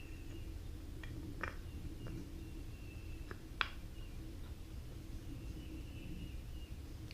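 A few light clicks and taps of small starter-motor parts being handled during reassembly, the sharpest about three and a half seconds in, over a steady low hum.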